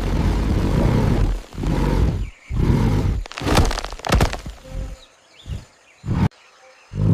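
A string of loud, low animal roars, about a second each, with a quick run of sharp cracks about three and a half seconds in and a single crack near the end.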